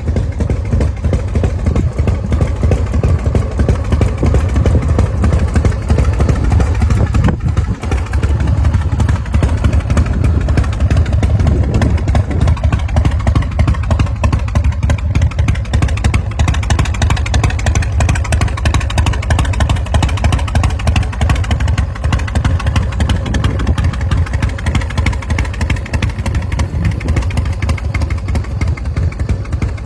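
Big Dog chopper's 1916 cc S&S V-twin engine running steadily with a deep, pulsing exhaust note. There is a brief dip about eight seconds in.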